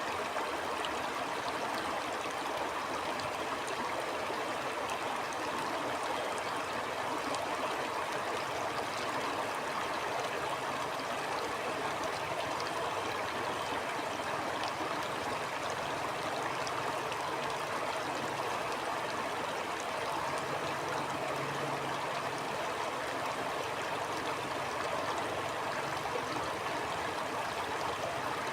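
Shallow stream running steadily over stones, an even rush with fine trickling and gurgling.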